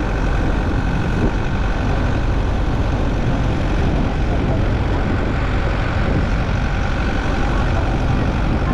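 Steady engine and road noise of a vehicle driving along a road, heard from inside it.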